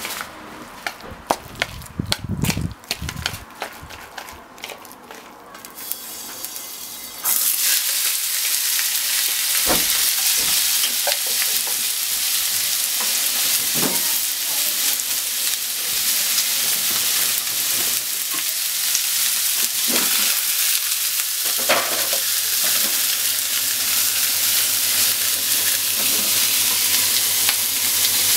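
Sliced pork and onion frying in hot oil in a frying pan. A sudden loud sizzle starts about seven seconds in, as the food goes into the pan, and runs on steadily with a few knocks. Before it come scattered clicks and knocks.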